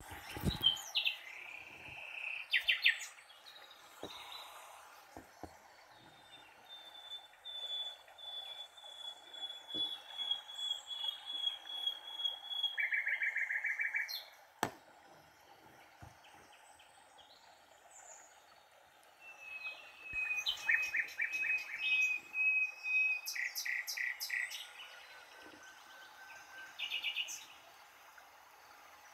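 A songbird singing: two long, even trills, each held for several seconds, and short quick runs of chirps between them.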